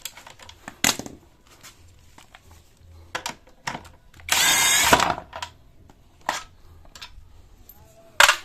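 A handheld power tool runs once, briefly, for under a second about halfway through, with a whining motor sound, amid scattered clicks and knocks of tools on metal parts.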